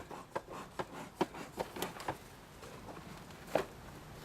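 Irregular small clicks and taps of handling, a few a second, with one louder tap about three and a half seconds in.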